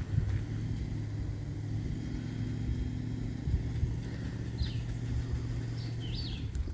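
Engine of a vehicle towing a large trailer, running with a steady low hum. A few short high chirps sound over it in the second half.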